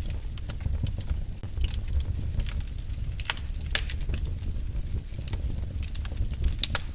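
Fire burning in a fireplace: a steady low rumble of flames with irregular crackles and a few sharper pops.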